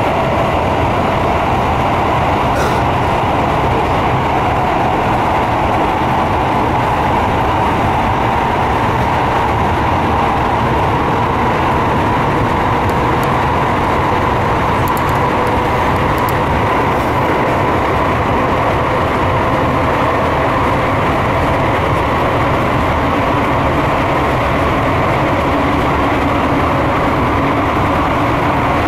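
Electric commuter train running at speed, heard from inside the car: a steady, loud running noise of wheels on rail and motors, with a faint, nearly level whine.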